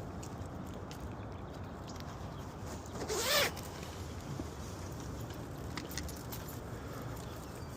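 A single short scrape about three seconds in, rising and then falling in pitch, over a steady low rumble of wind and handling noise; a few faint clicks follow later.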